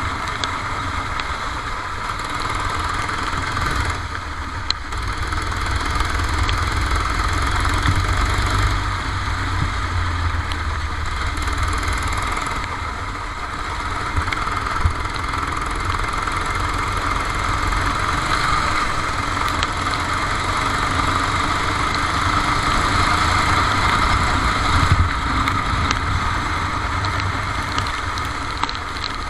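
Kart engine running steadily, heard onboard over a steady hiss, with no sharp revving sweeps.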